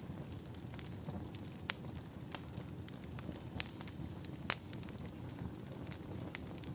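Fireplace crackling: a steady low rumble of burning with sharp pops of wood every second or so, the loudest a little past halfway.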